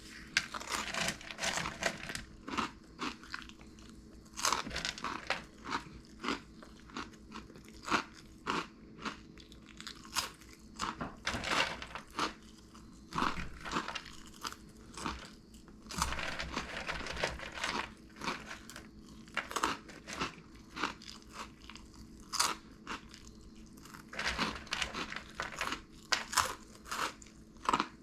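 Crunchy puffed corn snacks (Flamin' Hot BBQ Cheddar Cheetos) being bitten and chewed close to the microphone, in irregular clusters of sharp crunches, with a faint steady hum underneath.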